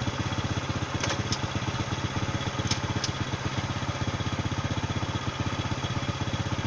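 Motorcycle engine idling steadily in neutral, its firing pulses even and regular, with a few short clicks in the first few seconds.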